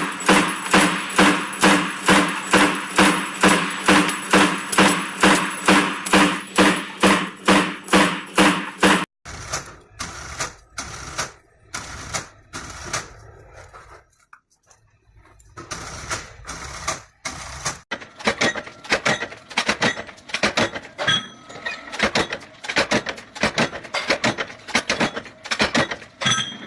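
Factory machines striking metal in a rhythm, about two blows a second, each with a short ring. Around nine seconds in the sound cuts to irregular knocks, then to quicker strikes of about three or four a second.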